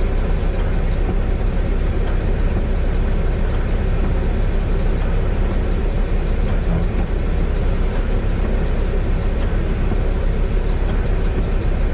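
Snowplow truck's engine running steadily without a break.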